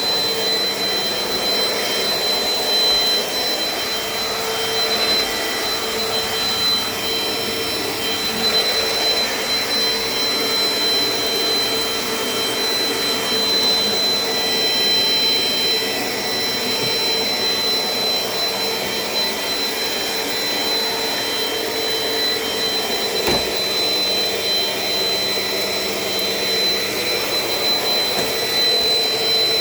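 Dirt Devil Dynamite Plus vacuum cleaner running steadily, a high whine over its motor noise, with a single sharp click about two-thirds of the way through.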